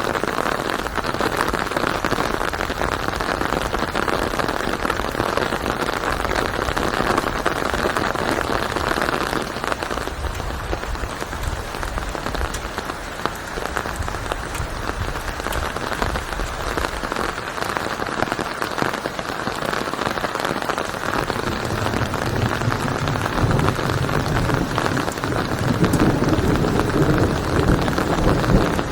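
Steady rain falling on a surface, a dense patter of drops, with a low rumble swelling in the last third.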